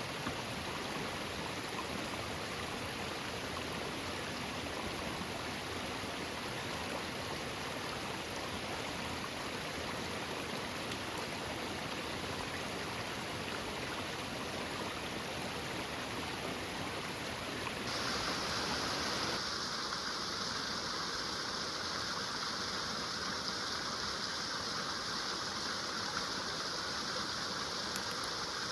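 Flowing woodland stream, a steady rush of water. About eighteen seconds in the sound shifts and turns brighter, as if the water were heard from closer or at a different spot.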